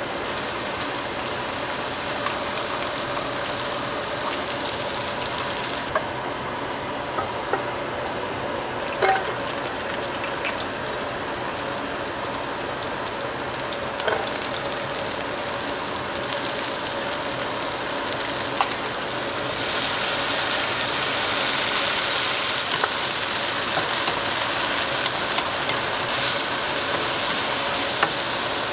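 Ginger, garlic and scallions, then pickled greens and napa cabbage, sizzling in hot oil in a nonstick pan as they are stir-fried, with a few sharp knocks of the utensil against the pan. The sizzling gets louder about two-thirds of the way through, over a faint steady hum.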